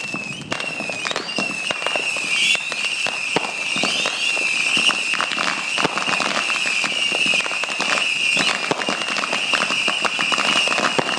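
Ground fireworks fountain spraying sparks and shooting comets: a dense stream of crackles and pops over a steady high whistle, with a few short rising whistles.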